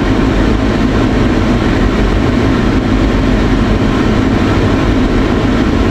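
Steady in-cabin noise of a pickup truck, a low engine and road rumble with a hiss above it, no distinct events.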